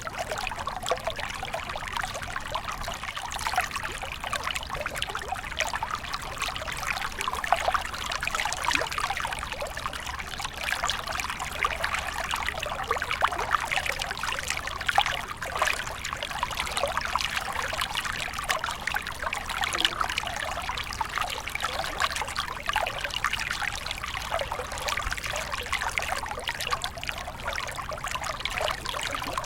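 Small stream of water flowing and trickling over stones, a steady babbling with many small splashes.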